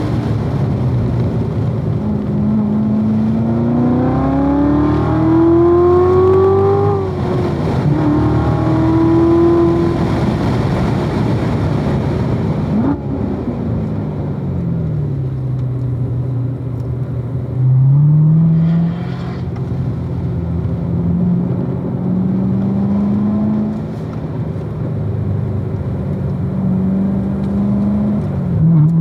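2016 Corvette Z06's supercharged 6.2-litre LT4 V8 under hard track driving. The engine note climbs and drops at a shift about seven seconds in. It falls away from about thirteen seconds as the car slows, then climbs steadily again under acceleration.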